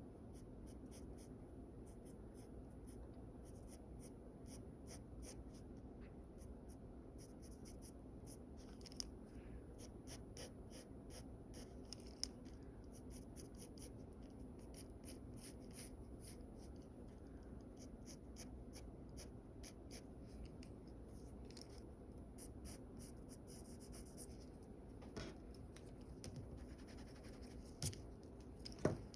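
Sketching strokes on paper: quick, light, rapidly repeated scratching, with a few sharper taps, the loudest near the end.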